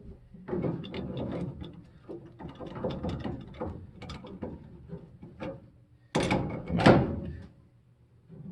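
Wrench turning a gas fitting onto threaded pipe: a run of irregular metal clicks and scrapes, with two louder grating strokes about six and seven seconds in and a short pause near the end.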